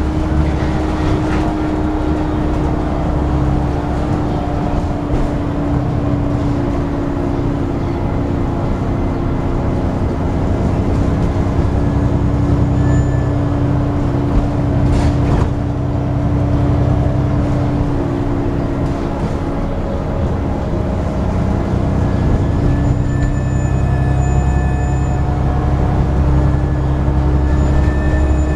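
Dennis Trident 2 double-decker bus heard from on board, engine running with a steady vacuum-cleaner-like whine ('hoovering') held throughout. The engine note shifts several times as the bus drives on.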